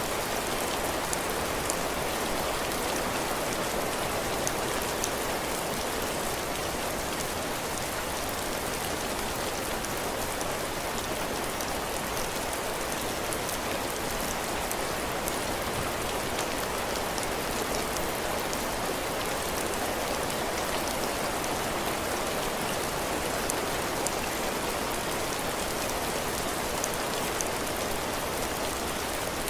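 Heavy rain falling steadily on a porch roof and the ground, with scattered small drop ticks.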